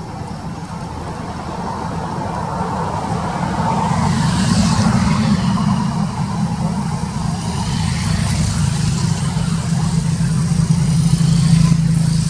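A motor vehicle's engine running with a steady low hum, growing louder over the first few seconds, with a couple of passing swishes.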